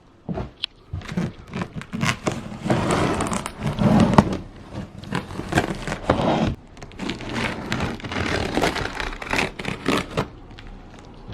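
Packaging being handled and pulled open: irregular scraping, crinkling and tearing with many sharp crackles, loudest about four seconds in.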